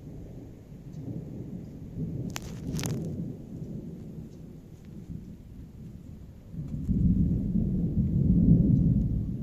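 Thunder rumbling during a thunderstorm, with two sharp cracks about two and a half seconds in, then a louder, deeper rumble that swells from about seven seconds and starts to fade near the end.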